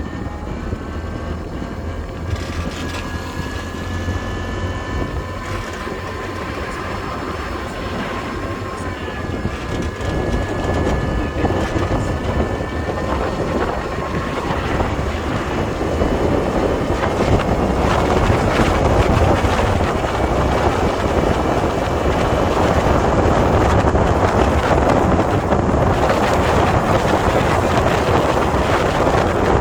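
Road and engine noise of a moving vehicle with wind, heard from inside it; the noise grows louder about halfway through.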